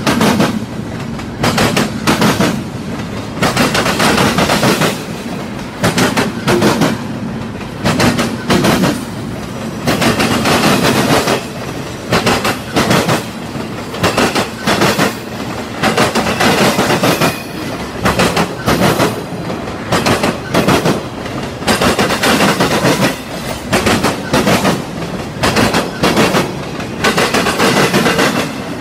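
Norfolk Southern double-stack intermodal freight train rolling past, its wheels clacking over the rails in loud clusters about every second or so as each car's wheel sets pass, over a steady rumble.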